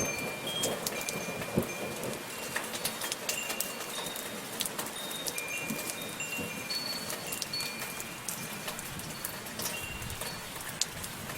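Soft, steady rain falling, with wind chimes tinkling now and then: short, high metallic notes scattered over the hiss of the rain.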